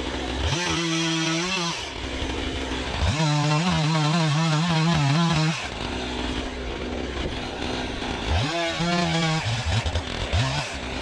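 Two-stroke chainsaw idling and revving to full throttle three times to cut firewood logs, the middle cut the longest with the engine note wavering under load, then dropping back to idle; two quick throttle blips near the end.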